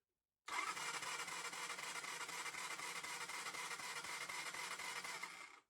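Electric starter cranking the Jianshe JS200GY's 200cc air-cooled four-stroke single, a steady churning that starts abruptly about half a second in and stops just before the end. The engine does not fire because there is no spark at the plug.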